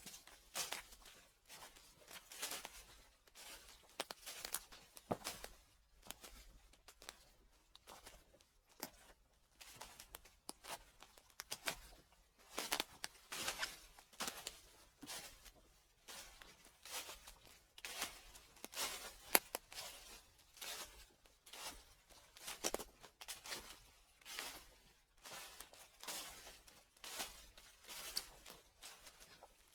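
Footsteps crunching through dry fallen leaves at a steady walking pace, about one crunchy step a second.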